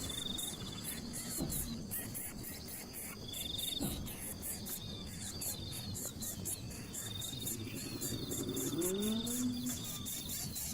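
Insects trilling in repeated buzzy phrases over a fast, steady high-pitched pulsing, with a few short bird chirps. A low rising call sounds near the end.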